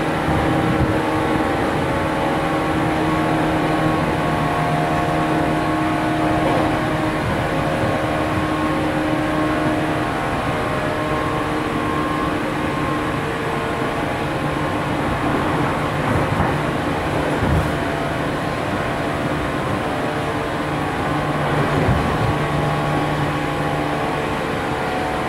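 JR 413 series electric train heard from inside the car while running: the steady hum and whine of the traction motors over the rumble of the wheels on the rails, with a single knock about 17 seconds in.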